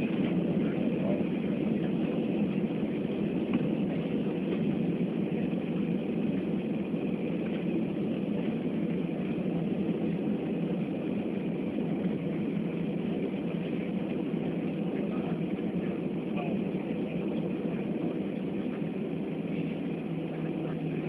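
Steady rushing noise of an airliner's engines and airflow heard inside the passenger cabin, slowly easing a little in level.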